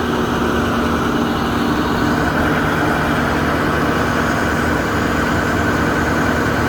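Bucket truck's engine idling steadily while the boom is worked, with a steady whine from the hydraulics that comes in at the start and a fainter higher whine joining about two seconds in.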